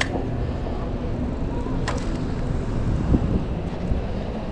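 Wind rumbling on the microphone while riding a bicycle, with a sharp click right at the start and another about two seconds in.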